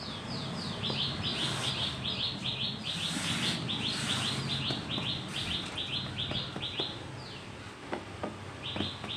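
A bird singing a fast run of short falling chirps, several a second, breaking off about seven seconds in and starting again near the end. Beneath it, hands softly rub and press dry cement powder in a pot, with a few small crackles near the end.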